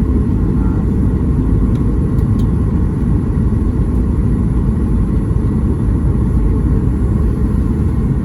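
Steady low rumble of a Boeing 737 MAX 8's CFM LEAP-1B engines and rushing air, heard inside the cabin from a rear window seat. A few faint clicks come about two seconds in.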